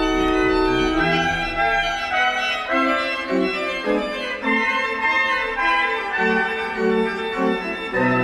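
Organ playing sustained chords, the harmony shifting about a second in and then moving on with a stepping bass line.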